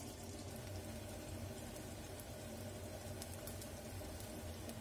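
Zucchini slices frying in oil in a pan: a soft, steady sizzle with scattered small pops.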